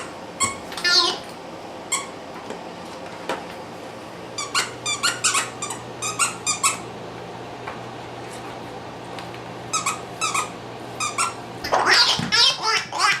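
Wobble Wag Giggle dog ball giggling and chirping in short bunches as it is pushed and rolled around, with the loudest bunch near the end.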